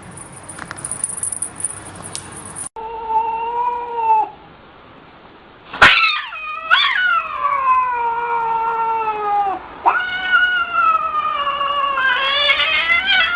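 A cat yowling: a short call, then after a pause two long drawn-out yowls whose pitch slides downward.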